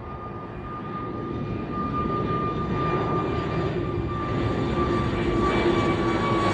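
Airliner engines approaching, a steady high whine over a rushing roar that grows louder throughout, the whine sinking slightly in pitch.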